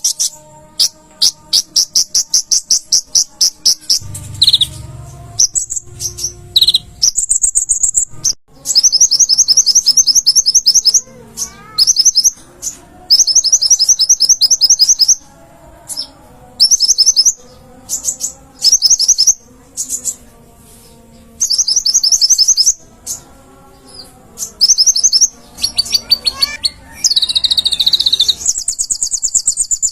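Konin (kolibri ninja) sunbird singing full song: loud, rapid high-pitched trills in bursts of a second or two, repeated over and over with short pauses between.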